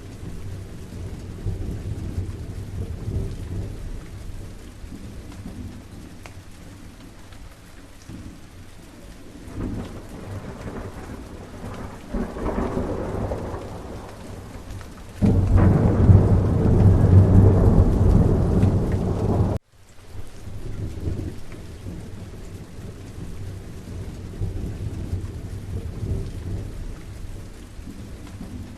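Steady rain with rolling thunder. A quieter rumble builds in the middle, then a loud, deep thunder rumble starts suddenly and lasts about four seconds before cutting off abruptly with a momentary dropout, after which the rain carries on.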